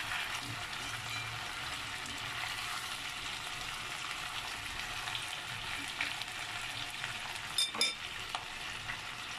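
Chicken wings, onion and pumpkin chunks sizzling steadily in hot oil in an enamelled cast-iron pot while being stirred with wooden chopsticks. A couple of sharp clinks come about three-quarters of the way through.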